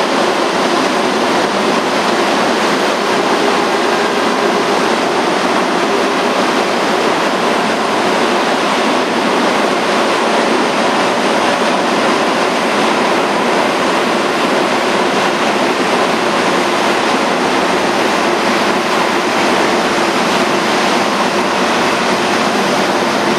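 Passenger train pulled by a diesel locomotive running across a steel truss railway bridge: a loud, steady noise of wheels and coaches on the bridge that holds without let-up.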